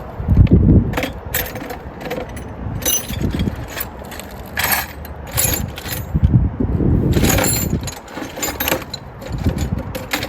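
Irregular metallic clinks and rattles of hand tools and car parts being handled under the hood, mixed with dull bumps and rustling close to the microphone.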